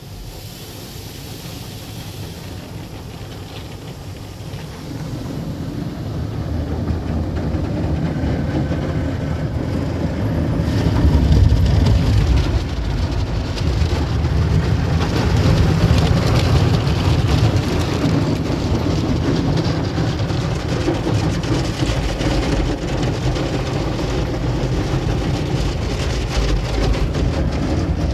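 Automatic tunnel car wash at work on a car: water spray and washing equipment beating on the body, a rumbling, rain-like wash. It builds up over the first ten seconds or so and then holds steady.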